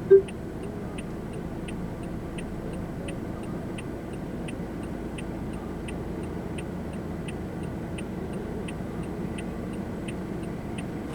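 Car turn-signal indicator ticking at an even pace over a low, steady cabin hum, with one short beep right at the start.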